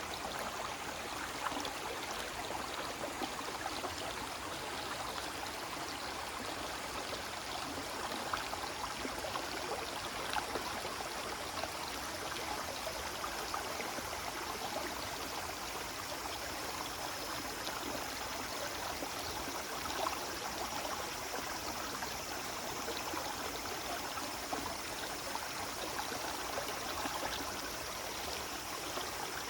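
Waterfall pouring steadily: an even rush of falling water with scattered small splashes.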